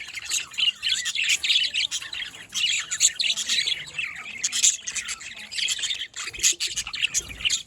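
A flock of budgerigars chattering and chirping together, a dense run of many short overlapping calls.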